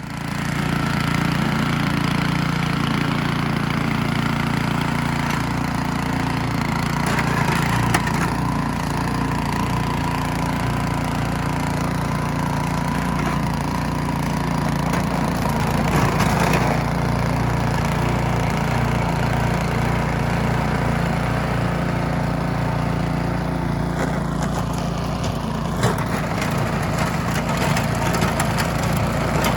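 Gas snowblower engine running at a steady speed, coming in abruptly at the start and holding an even, loud drone throughout.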